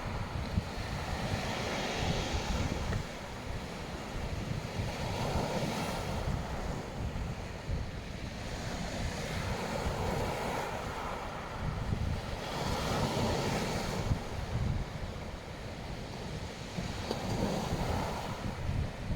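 Black Sea waves washing onto a beach, surging and fading every few seconds, with wind buffeting the microphone as a low rumble.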